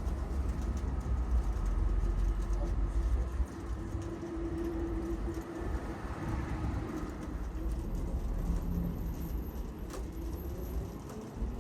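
PKTS 71-931M Vityaz-M tram under way: low rumble of wheels on the rails with a steady hum from the traction drive. The rumble eases about three and a half seconds in, and a slowly rising whine starts near the end.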